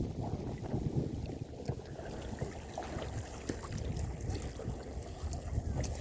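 Wind buffeting the microphone over water washing and lapping around a sailing canoe under way, with scattered small splashes and ticks.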